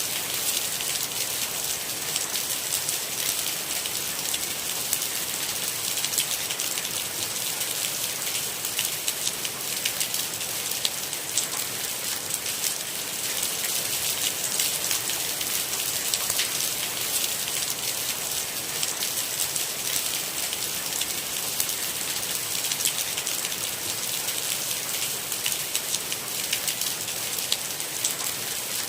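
Steady rain falling, a constant hiss dotted with dense fine drop impacts, with no thunder.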